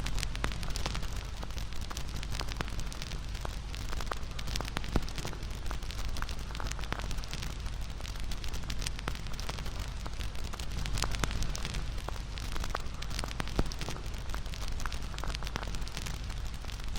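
Wood bonfire crackling: many irregular sharp pops and snaps over a steady low rumble of the flames.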